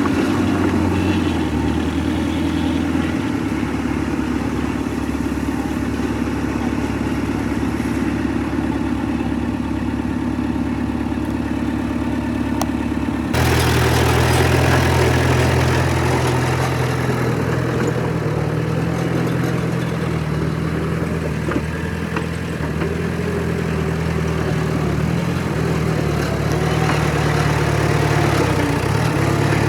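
Heavy diesel earthmoving machinery engines running steadily; about thirteen seconds in the sound changes abruptly to a slightly louder, deeper engine note.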